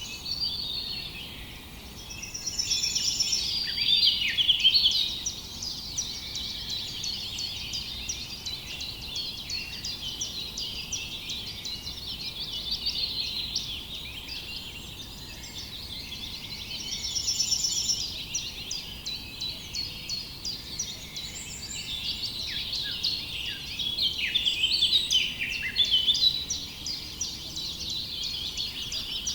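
Many birds chirping and singing together in a dense chorus of overlapping quick chirps and trills, swelling louder a few times.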